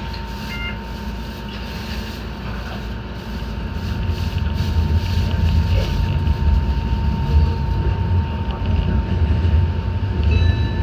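Enoden electric train running on its track: a steady low rumble of the motors and wheels on the rails that grows louder about four seconds in as the train picks up speed, with a thin steady whine underneath.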